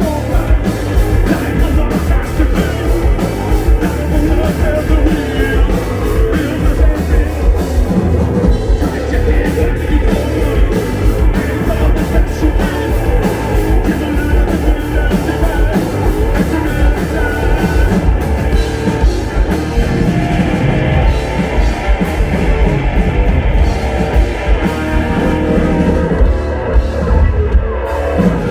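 Heavy rock band playing live and loud: distorted electric guitar, bass and a pounding drum kit.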